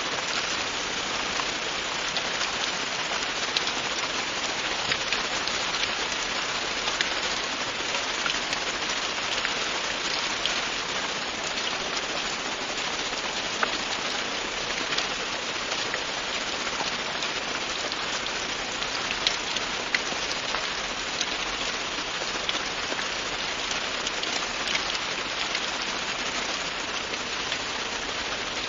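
Steady rain falling, a dense hiss with scattered individual drops ticking through it.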